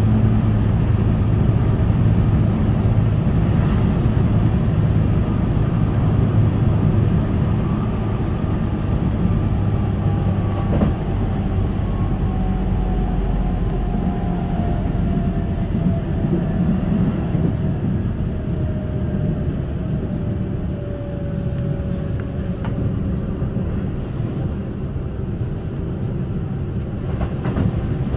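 Keihan 8000 series electric train running, heard from inside the passenger car: a steady rumble of wheels on rail, with a thin motor whine that falls slowly in pitch through the middle of the stretch as the train slows.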